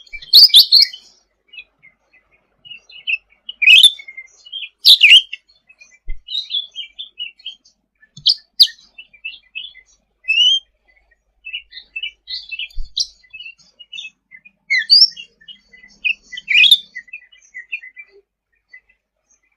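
Cucak ranting songbird singing a busy, unbroken run of short chirps and whistled notes, with louder sweeping calls breaking in several times.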